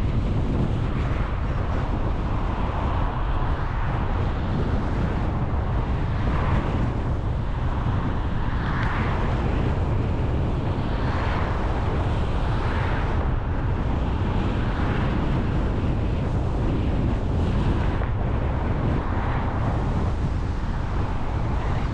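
A car driving along: a steady low rumble of road and engine noise, with wind noise that swells and fades every second or two.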